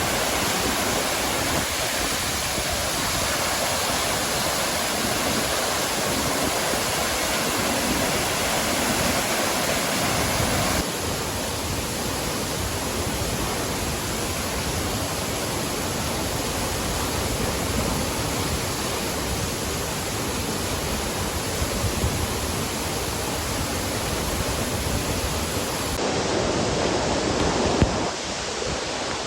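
Steady rushing roar of the Kulen waterfall, an even wash of water noise that changes level and character abruptly about eleven seconds in and again near the end.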